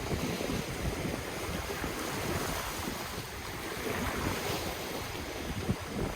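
Ocean waves washing ashore in a steady rush, with wind buffeting the microphone in low, uneven gusts.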